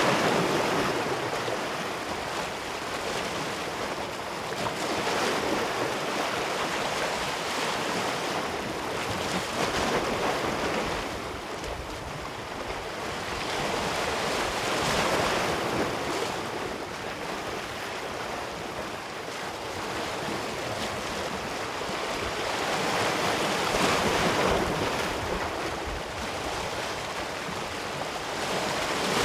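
Ocean waves breaking on a beach, the surf swelling and washing back in repeated surges every few seconds, with a steady rush between them.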